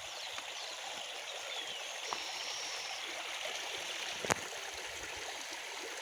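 River water running steadily over a rocky bedrock channel with small rapids, a continuous rushing. A single sharp click sounds about four seconds in.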